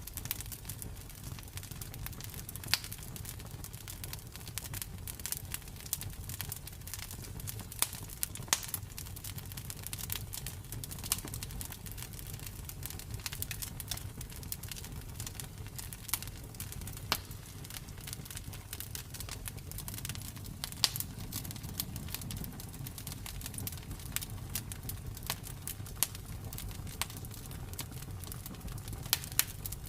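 Campfire crackling: irregular sharp pops and snaps, a few of them louder than the rest, over a low steady rumble.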